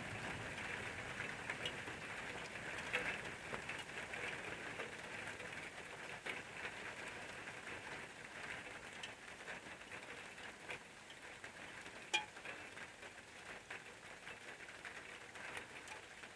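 Steady rain falling: an even hiss dotted with many small drop ticks, with one sharper tick about twelve seconds in. It grows slowly quieter.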